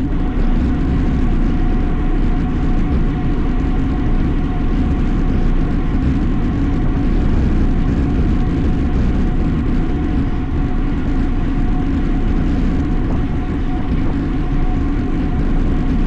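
Steady wind rushing over a camera microphone on a road bike ridden at race pace, with a low rumble of tyres on the road and a faint steady hum.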